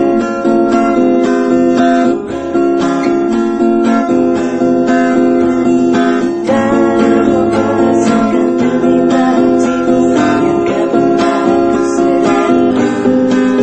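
Acoustic guitar strumming chords steadily, with no singing.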